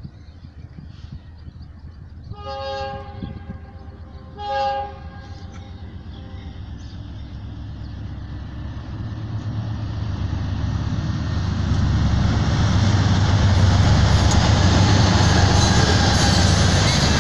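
Diesel freight locomotive horn sounding two blasts, the second shorter and louder, as the train approaches. Then the locomotive's engine and wheels rumble, growing steadily louder as it comes close and passes.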